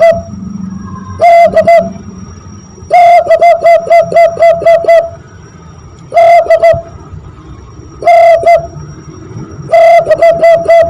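Zebra dove (perkutut) call imitated by blowing into cupped hands: phrases of quick repeated cooing notes, some short and some running about two seconds, repeated several times with short gaps.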